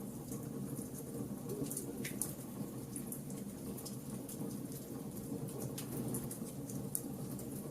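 Wood fire burning: a low steady rush of flames with irregular sharp pops and crackles of burning wood, a few louder snaps among them.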